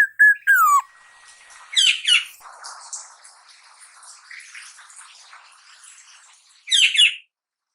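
Young black-naped oriole calling: a short clear whistled note that slides down in pitch, the fluted 'ploong' whistle it is learning, then loud harsh squawks about two seconds in and again near the end, with softer scratchy chirps between.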